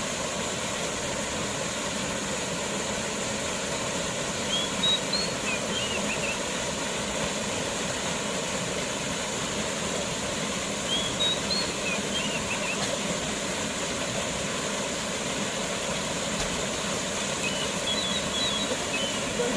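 Waterfall water rushing steadily, with three brief runs of short high chirps over it.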